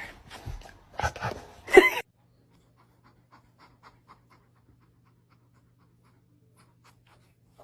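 Heavy panting in several short bursts over the first two seconds, the last one the loudest, then near silence with a faint low hum and a few soft ticks.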